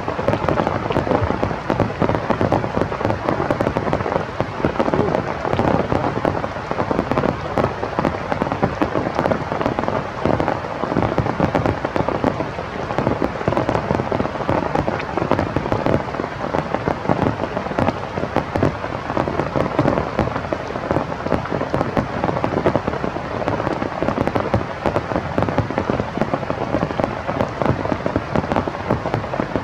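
Steady rain falling, a dense continuous patter of drops striking a surface.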